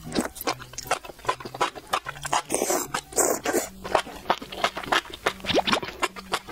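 Close-miked eating: a mouthful of sauce-coated enoki mushroom strands slurped in and then chewed, giving a dense run of short wet smacks and squishes.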